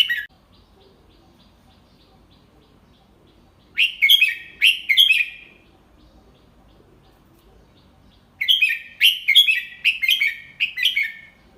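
Red-whiskered bulbul singing in clear, separate phrases: a brief note right at the start, a phrase of about four quick notes about four seconds in, and a longer run of about eight notes from about eight and a half seconds in.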